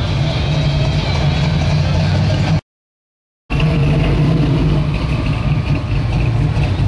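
Car engine running at a steady low rumble, cut off abruptly for about a second partway through and then resuming.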